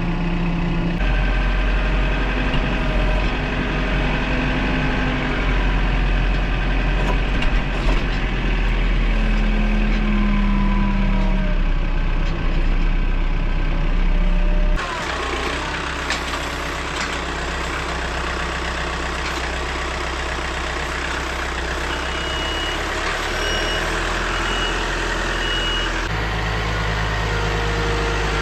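An engine running steadily, its sound changing abruptly about halfway through and again near the end.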